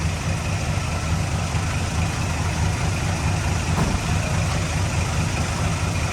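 Heavy diesel engine of earthmoving equipment running steadily, with a deep, pulsing low rumble.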